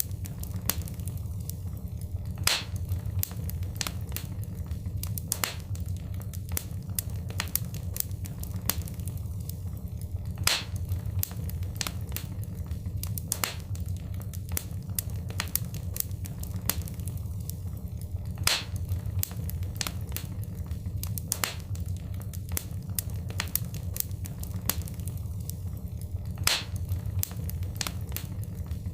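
Wood fire crackling in a fireplace: frequent sharp pops and snaps over a steady low rumble, with a louder pop about every eight seconds.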